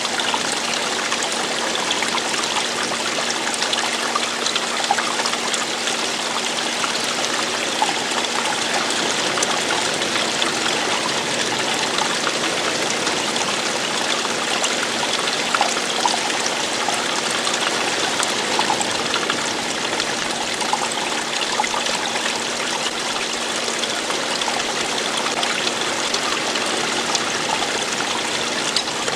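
Running water flowing and trickling steadily, an unbroken rush with small splashes throughout.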